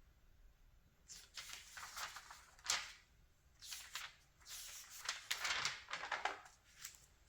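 Glossy magazine pages being turned and handled: a run of paper rustles and swishes, with a sharper snap of paper a little under three seconds in.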